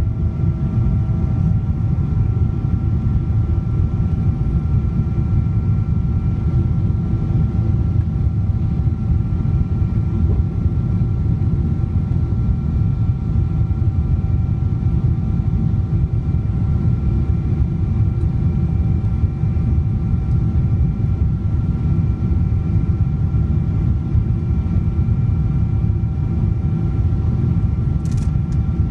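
Steady jet-engine roar inside the cabin of a Boeing 777-200ER powered by Pratt & Whitney PW4090 turbofans, with a few steady whining tones over the deep rumble.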